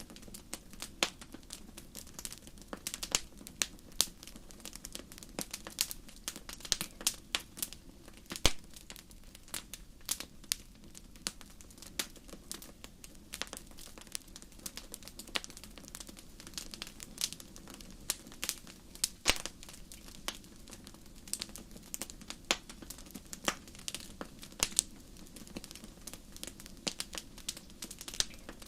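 Campfire burning with frequent irregular crackles and sharp pops of burning wood over a low, steady hiss of the flames.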